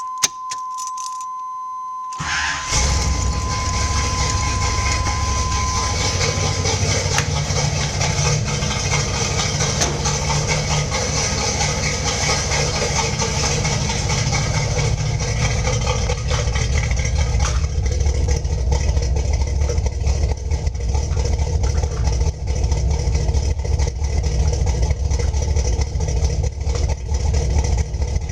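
1988 Camaro's 305 V8, with stock manifolds and true dual exhaust into Flowmaster 10 series mufflers, starting about two seconds in and then idling steadily. A steady high electronic tone sounds at the start and stops a few seconds after the engine fires.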